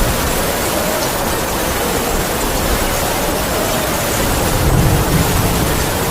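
Heavy rain falling steadily, with wind howling in a thin, wavering tone that drifts slowly downward. A brief low rumble swells about five seconds in.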